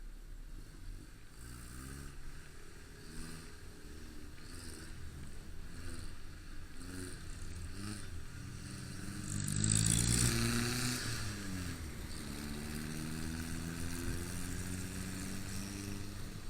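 Motorcycle engine running under way, its pitch repeatedly rising and falling as it accelerates and eases off. A louder rushing noise swells up about ten seconds in.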